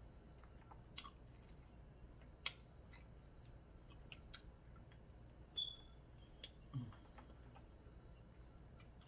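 Faint, scattered clicks and small cracks of someone eating seafood boil: mouth sounds and shells being handled, with a few louder ticks spread through.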